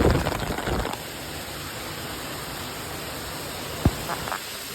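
Heavy rain falling in a steady hiss, with louder low noise for about the first second and a single short thump near the end.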